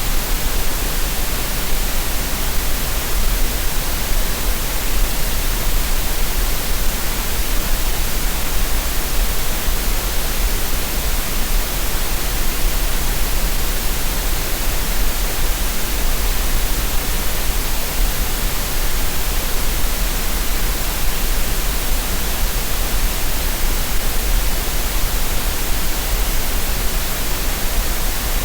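Steady synthetic green noise, an even, unbroken hiss that does not change.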